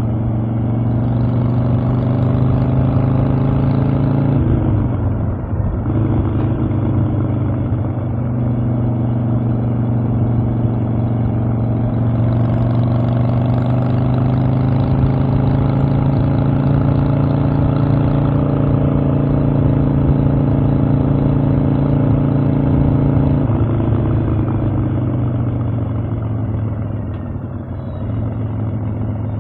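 Harley-Davidson Evolution air-cooled V-twin engine running under way on the road. The pitch drops briefly about four to five seconds in, climbs and holds steady, then falls off over the last few seconds as the bike slows.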